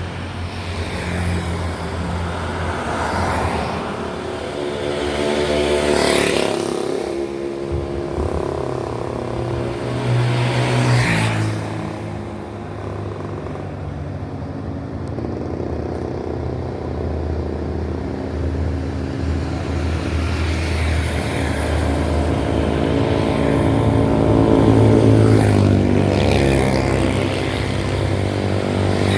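Road traffic: motor vehicles passing one after another with their engines running, several loud pass-bys about six, eleven and twenty-six seconds in.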